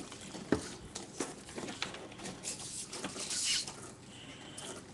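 Packaging being handled by hand while a boxed model plane is taken out: scattered light clicks and taps with brief rustles, the longest rustle a little past halfway.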